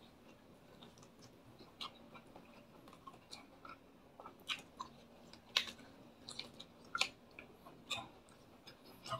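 Close-up chewing of a mouthful of fried food eaten by hand: scattered soft wet smacks and small crunches, a few each second, with no talking.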